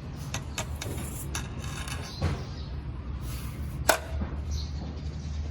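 Azbil ECM3000F0200 24 V AC control motor (damper actuator) running with a steady low hum, broken by a few sharp clicks, the loudest about four seconds in.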